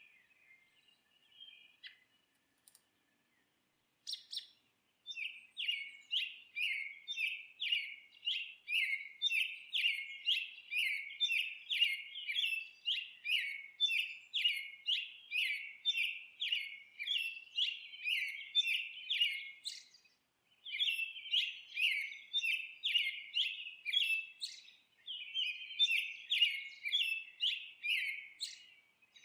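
A bird singing a long run of short, rapidly repeated chirps, about two a second, with a couple of brief pauses in the run, after a few faint chirps at the start.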